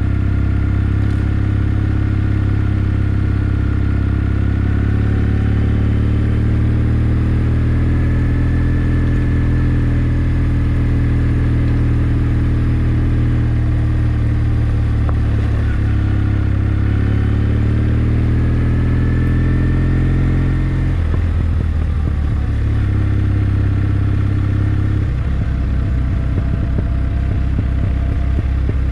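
Kawasaki W650's air-cooled parallel-twin engine running as the motorcycle rides along, its note rising and falling gently with the throttle. About two-thirds of the way through the note drops and turns choppy, as when the throttle is closed.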